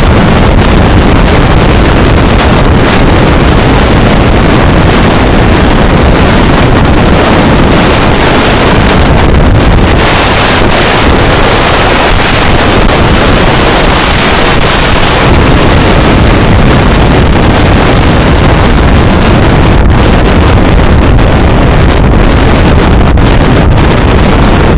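Strong storm wind buffeting the microphone: loud, continuous rushing noise, hissier for a few seconds near the middle.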